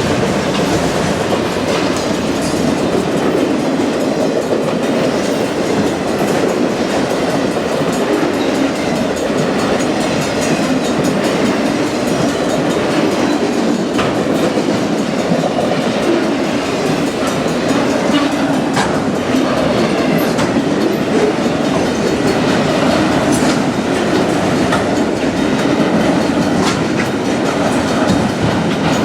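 BNSF autorack freight train rolling by, a loud steady rumble of its cars' steel wheels on the rails.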